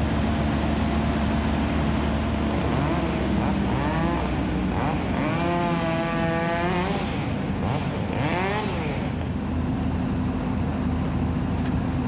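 Merlo crane's engine running steadily. From about three to nine seconds in, a higher-pitched engine revs up, wavers and falls back.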